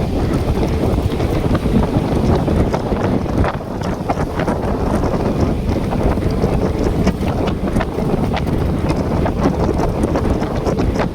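Wind buffeting the microphone: a loud, steady low rumble, with scattered faint clicks over it.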